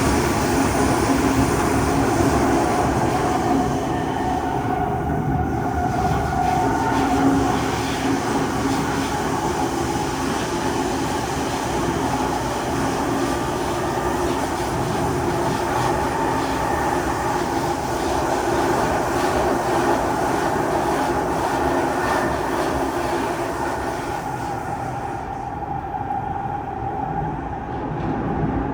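Kawasaki C151 metro train running between stations, heard from inside the car: a steady rumble of wheels on rail with a hum of steady tones from the drive. The sound softens and loses its hiss in the last few seconds.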